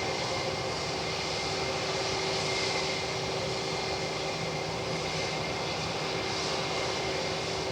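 Jet airliner engines running steadily at low taxi power: an even rumble with a constant whine held at one pitch.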